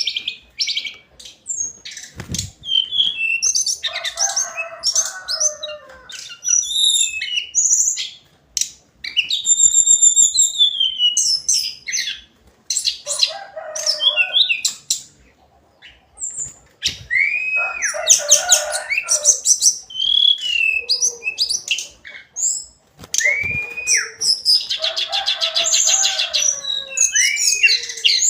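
Hill blue flycatcher singing in repeated bursts of fast, varied phrases: high whistles that rise and fall, quick trills and chips, some with lower notes mixed in, and short pauses between bursts.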